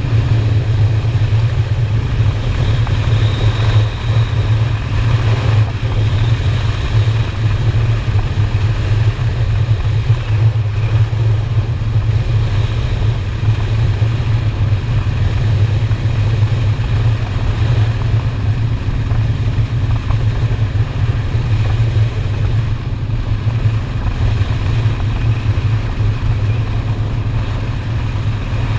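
Honda Shadow V-twin motorcycle engine running steadily at road speed, a continuous low drone under the rush of wind on the microphone, with small shifts in pitch near the start and about halfway through.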